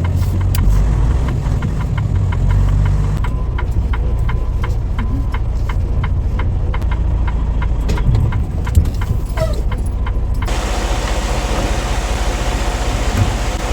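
Semi-truck diesel engine idling, a steady low rumble with a regular ticking. A steady hiss joins about ten seconds in.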